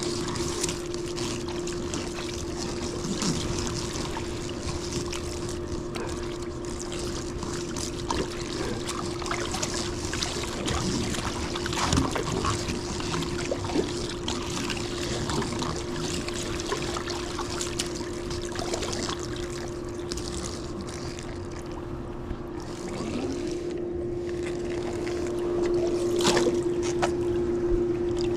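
Water trickling and splashing as a pool vacuum hose is filled to purge its air, over the steady hum of a running pool pump.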